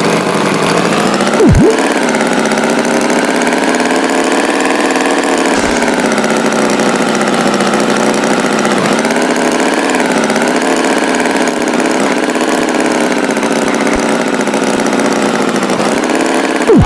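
Tractor engine running steadily, its pitch wavering slightly up and down, with a brief loud swoop about a second and a half in.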